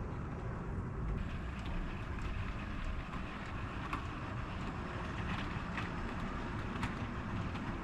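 OO gauge model train running on the layout track: a steady low rumble with a few sharp clicks, two of them standing out about four seconds in and near the end.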